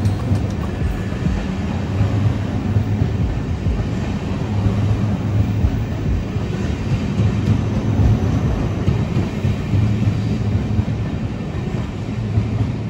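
ÖBB Nightjet sleeper train's carriages rolling past along the platform: a steady low rumble of wheels on the rails.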